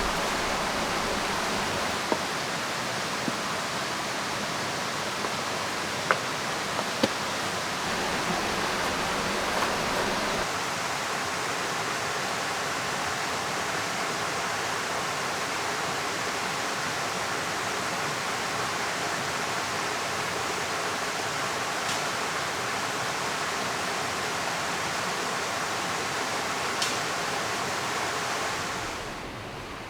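River flowing: a steady rush of water, with a few sharp ticks in the first ten seconds. It fades down just before the end.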